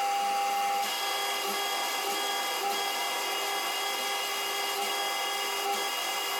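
Metal lathe boring out a 4140 steel collet with a small boring bar, which squeals as it cuts: a steady whine of several high tones whose pitch mix shifts about a second in.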